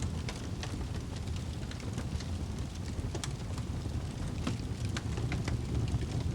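Wood fire burning in a fireplace: a steady low rumble of flames with frequent irregular crackles and pops, several a second.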